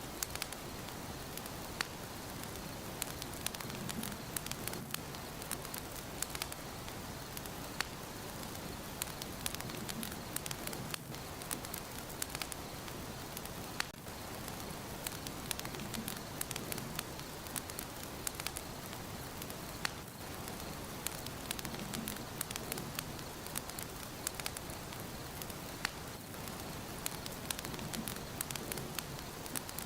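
Wood fire burning in a fireplace: a steady soft hiss of flames with frequent, irregular crackles and pops.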